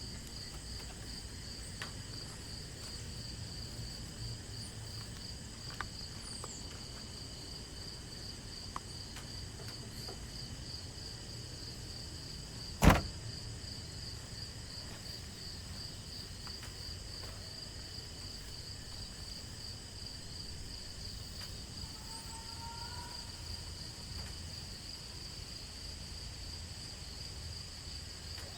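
Crickets or similar insects chirring in a steady, fast-pulsing high trill, over a low rumble. A single sharp knock about 13 seconds in stands out above it, with a few faint ticks elsewhere.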